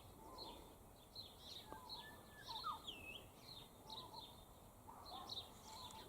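Faint background birdsong: several birds calling, with many short high chirps repeating throughout, a few lower calls, and one curving whistled note about halfway through.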